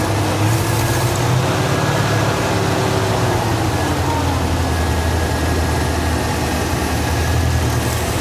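1970 Chevy C10 truck engine running steadily, just revived after a new distributor, cap and rotor were fitted.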